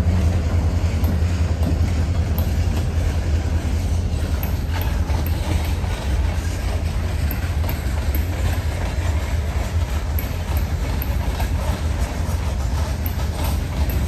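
A diesel locomotive rumbling past at close range, its deep engine rumble easing after about four seconds as the freight cars behind it roll by, their wheels clicking over the rail joints.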